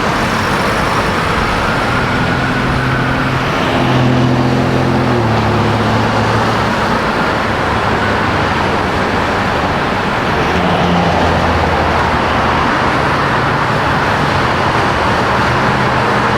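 Road vehicle running under way with steady loud road noise; its engine note steps up and down in pitch a couple of seconds in, as through gear changes.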